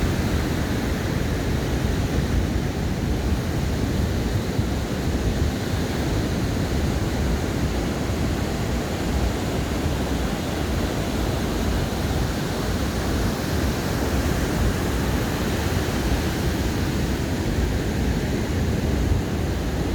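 Ocean surf washing onto a sandy beach: a steady, unbroken rush of noise, heavy and rumbling in the low end.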